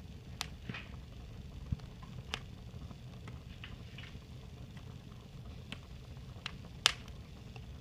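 Fire crackling: irregular snaps and pops over a low steady rumble, with one sharp, louder pop near the end.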